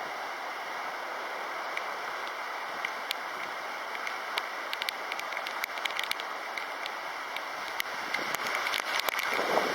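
Typhoon rain, a steady hiss dotted with scattered sharp ticks of drops striking close by, swelling louder near the end.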